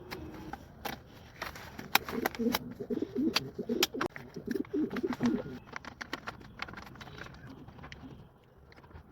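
Pigeons cooing: a run of low, warbling coos between about two and five and a half seconds in, with scattered sharp clicks and taps.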